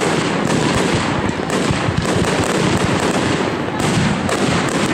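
Aerial fireworks display: shell after shell bursting in quick succession, a near-continuous run of bangs and crackle.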